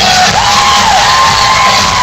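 Loud music with a crowd cheering and whooping over it, with a few drawn-out, rising and falling high calls.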